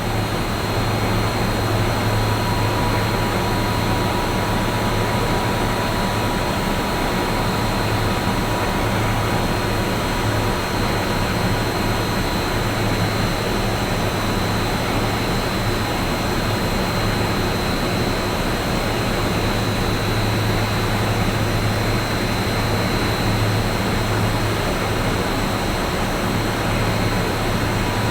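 Rice-husk-fired biomass steam boiler plant running steadily: a continuous mechanical roar with a low hum and faint high whines.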